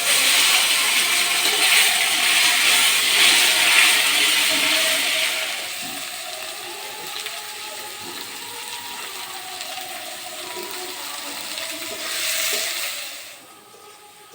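A hot cooking pan sizzling loudly as food goes into the hot oil, starting suddenly, easing after about five seconds to a steadier low sizzle and swelling briefly again near the end.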